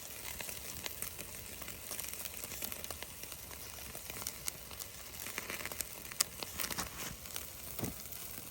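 Ribeye steaks sizzling on a grate over a wood campfire, with the fire crackling: a steady hiss dotted with many small pops and crackles.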